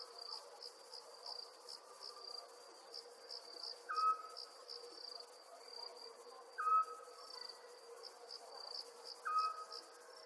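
Night ambience of crickets chirping steadily in rapid pulses, with a louder short call repeating about every two and a half seconds over them.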